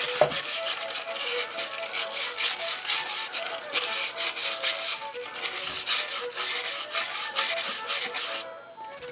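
Brass-bristle brush scrubbing the soft aluminum funnel of a hand-crank coffee grinder in quick rasping strokes, pausing briefly near the end.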